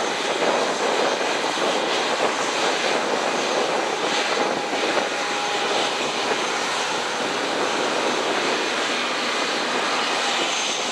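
Airbus A319's CFM56 jet engines running steadily after start-up: a loud, even rush of engine noise with a faint high whine.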